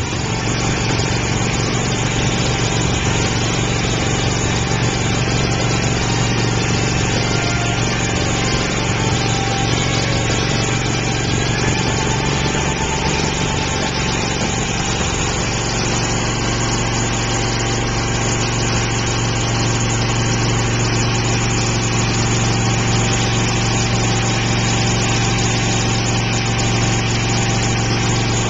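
Honda engine of a high-pressure hydro-jetter running steadily, driving the 4,000 psi water pump for drain jetting, with a slight change in its low note about halfway through.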